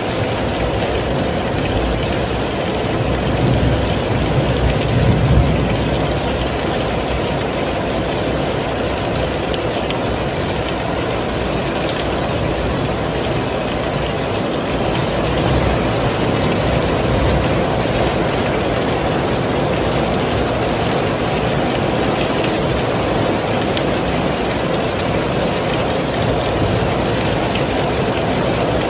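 Heavy rain falling steadily in a dense, even hiss, with a low rumble swelling twice, about four seconds in and again about halfway through.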